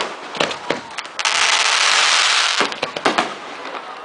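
Fireworks going off: a few sharp bangs, then a loud hiss lasting about a second and a half, then another quick cluster of bangs.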